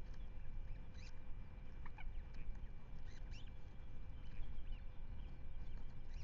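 Scattered short bird calls and chirps from several birds over a steady low rumble of wind on an outdoor microphone.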